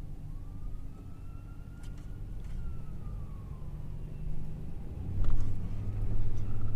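Low, steady rumble of a truck's engine and road noise heard inside the cab, growing louder about five seconds in, with a few light clicks. A faint tone slowly rises and falls over about three seconds.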